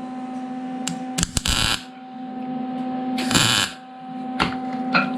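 Homemade dent puller working a dent in a car's steel rear quarter panel: sharp clicks and two short bursts of noise, about a second in and again a couple of seconds later, over a steady hum.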